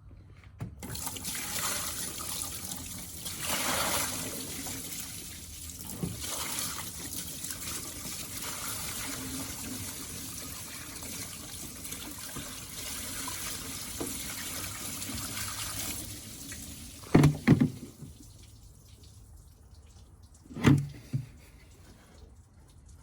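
Water poured from a bucket splashing over a rusted metal battery tray for about fifteen seconds, rinsing off rust dissolver gel. Then a few loud knocks near the end.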